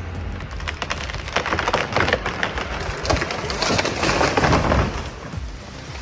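Wood cracking and splintering in a rapid, irregular run of cracks, growing loudest about four seconds in and dying away near the end.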